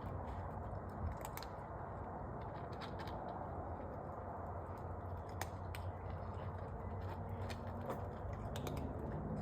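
Cats eating: scattered small clicks of chewing and lapping over a steady low background hum.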